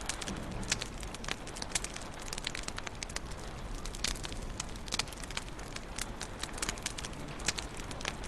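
Wood fire crackling in a fireplace: a steady low hiss with many irregular sharp pops and snaps, several each second.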